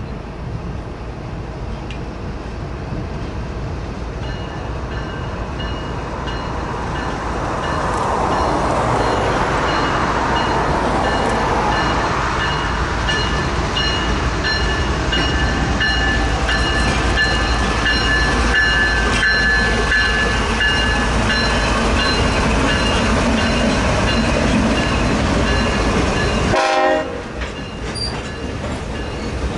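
BNSF diesel freight locomotives and a mixed freight train rolling slowly past: a steady, loud rumble of engines and wheels on rail, with thin, steady high squealing tones from the wheels. Near the end a locomotive air horn sounds.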